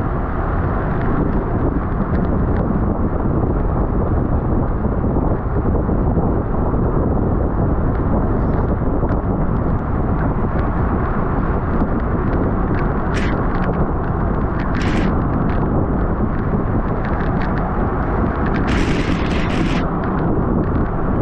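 Loud steady wind rush buffeting the microphone of a bike-mounted camera at racing speed, with a few brief higher hisses and clicks in the second half.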